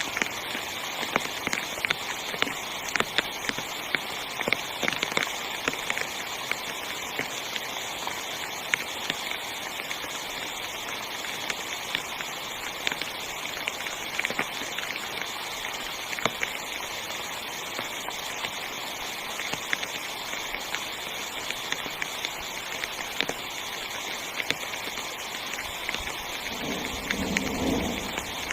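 Heavy rain falling on a tent: a steady hiss dotted with many sharp drop hits, denser in the first few seconds. Near the end a low rumble swells briefly.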